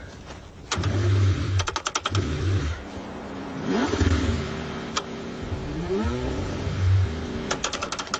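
Car engine being cranked in freezing cold and struggling to start, the starter turning it over in uneven bursts. Short runs of rapid clicking come twice, and a few rising and falling whines sound in the middle.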